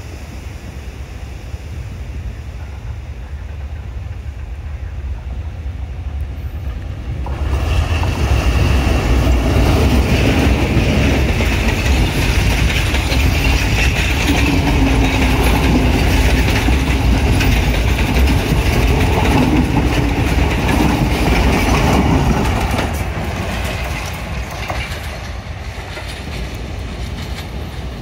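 Express train hauled by a Class M8 (Indian-built ALCO WDM2) diesel locomotive approaching and passing close by. A low rumble builds, the sound jumps up sharply about a quarter of the way in as the locomotive draws level, and the coaches' wheels then clatter over the rail joints for about fifteen seconds. The sound fades as the train moves away.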